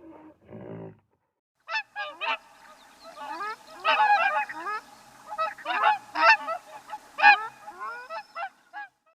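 Several birds giving short calls in quick succession, often overlapping, each call sweeping in pitch; the calling starts a little under two seconds in.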